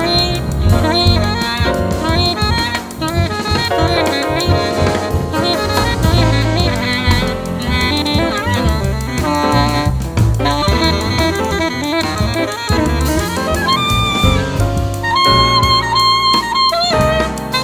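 Jazz quartet playing live: alto saxophone over piano, bass and drum kit, with a few long held notes in the last few seconds.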